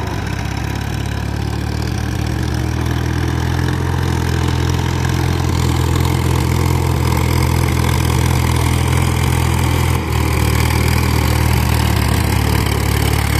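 Powertrac Euro 50 tractor's three-cylinder diesel engine running steadily, with a brief dip about ten seconds in.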